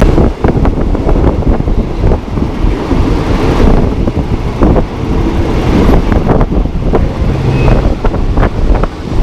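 Local train running along the track: a heavy, steady rumble with many irregular clanks and knocks from the wheels and cars on the rails.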